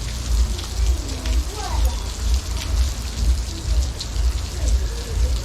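Heavy rain falling steadily: a continuous hiss sprinkled with many sharp individual drop hits, over a low steady rumble.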